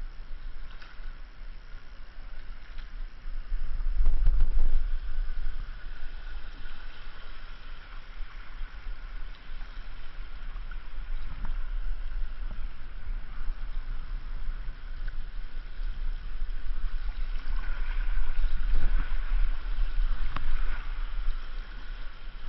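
River water rushing and gurgling around a kayak, with scattered splashes and a heavy low rumble of water and wind buffeting the camera microphone. It swells louder about four seconds in and again near the end.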